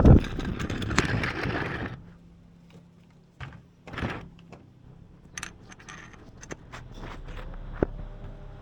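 Metal tools and parts clanking: a hard knock at the start, about two seconds of rattling, then scattered clinks and taps.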